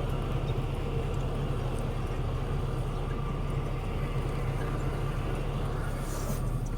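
Steady road noise heard from inside a moving truck's cab: a low, even rumble of engine and tyres.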